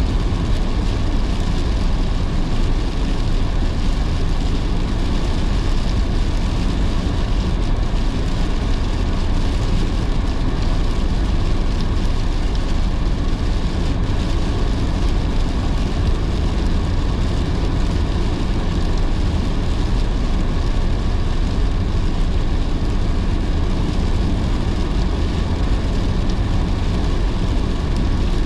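A car driving on a wet road in heavy rain: a steady, deep rumble of tyres and engine with the hiss of rain and spray over it, unchanging throughout.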